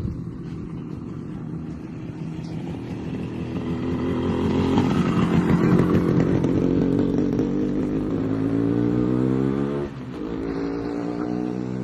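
Motorcycle engine accelerating, its pitch climbing steadily for several seconds, then dropping suddenly at a gear change about ten seconds in and climbing again.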